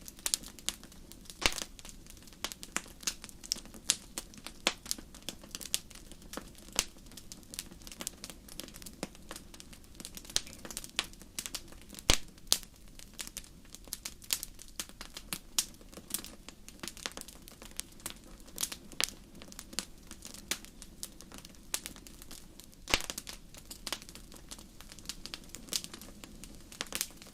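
Wood fire in a fireplace crackling, with irregular sharp pops of varying strength over a soft steady hiss.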